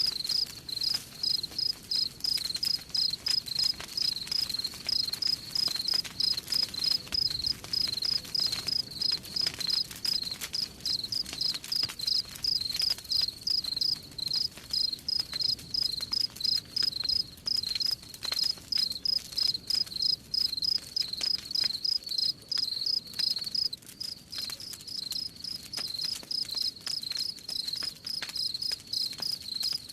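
Crickets chirping steadily, about three chirps a second, over a wood campfire crackling with irregular small pops.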